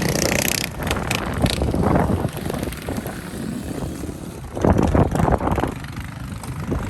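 Small-engine mini bikes running, with wind noise on the microphone; the sound gets louder for about a second near the middle.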